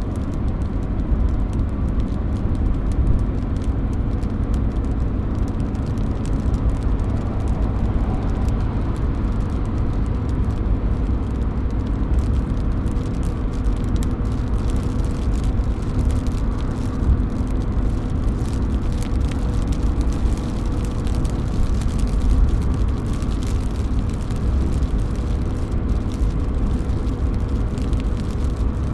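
Steady rain with drops falling off a roof, a continuous wash of water noise over a deep low rumble, with scattered small drip ticks.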